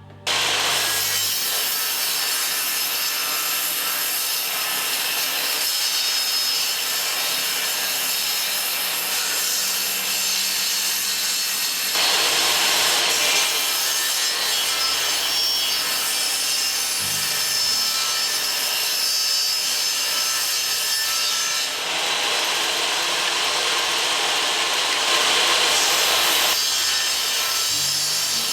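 Saw cutting a circle out of coated marine plywood: a steady, continuous cutting noise, changing in tone a few times as the cut goes on.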